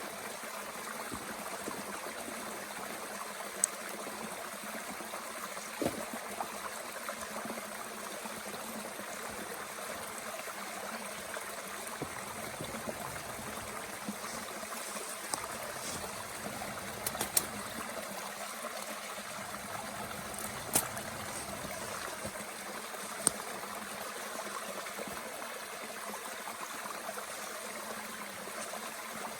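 Mountain stream running steadily, with a few sharp pops and crackles from a small wood fire burning in a Bush Box stove.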